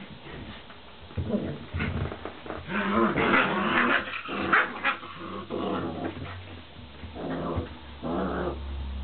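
White Swiss Shepherd puppies, about six weeks old, growling in a string of short bursts as the littermates play-fight.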